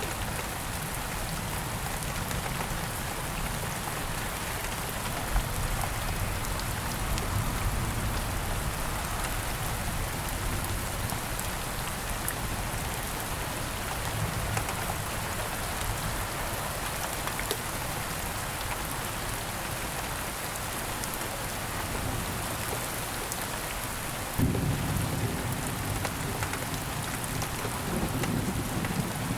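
Steady rain falling in woodland. A low thunder rumble sets in suddenly about four-fifths of the way through and keeps going.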